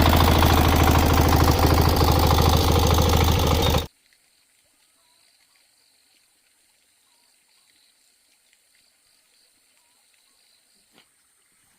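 An engine running steadily with a rapid, even beat, cutting off suddenly about four seconds in, followed by quiet with faint outdoor sounds.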